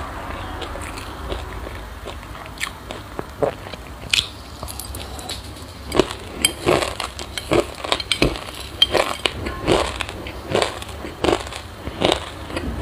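Close-miked chewing of crunchy sesame seeds with passion fruit: sharp, brittle crunches, a few at first and then coming quickly, about two a second, from about halfway through.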